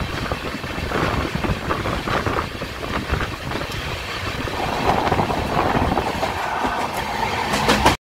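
A moving Indian Railways passenger coach heard from its open door: a steady rumble of wheels on rail with clickety-clack and rushing air. Near the end there are a few sharp clicks, then the sound cuts off abruptly.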